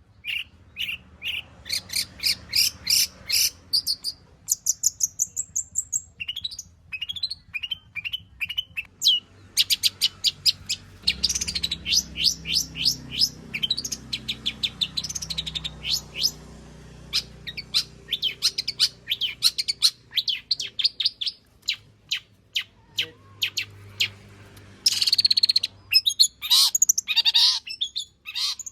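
Long-tailed shrike (cendet) singing a full, varied song packed with mimicked phrases: fast runs of repeated sharp notes, short rising whistles and, near the end, a harsh scratchy burst.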